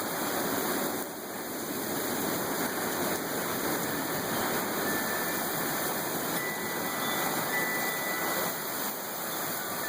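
Heavy rain pouring down in a strong windstorm: a dense, steady rushing hiss that dips briefly about a second in.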